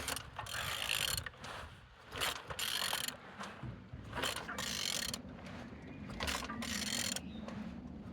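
Renault M9R diesel engine being turned over by hand with a wrench, in a series of irregular strokes of ratcheting and mechanism noise. The engine turns freely.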